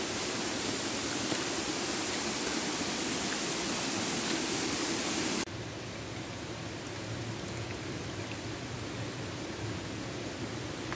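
Steady rushing-water noise from heavy rain or falling water in rainforest. About five seconds in it cuts abruptly to a quieter, duller rush with a few faint drip ticks.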